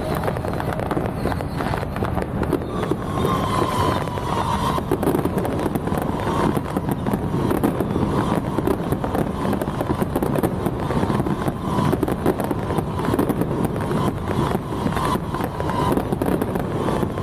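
Dense, continuous crackling of strings of firecrackers, with a faint wavering tone heard briefly a few seconds in and again near the end.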